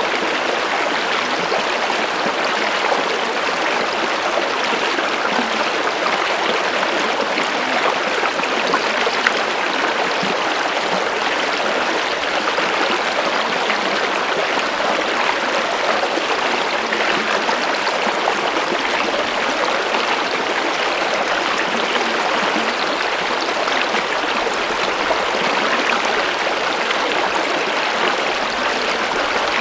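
Flowing water rushing steadily and evenly, with no pauses or changes.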